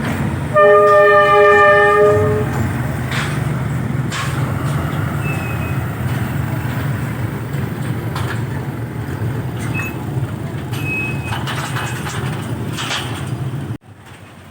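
Diesel locomotive D19E-948 sounding its horn once for about two seconds, then its engine rumbling steadily as it runs light over the track, with a few sharp knocks from the wheels over the rail joints. The sound cuts off suddenly near the end.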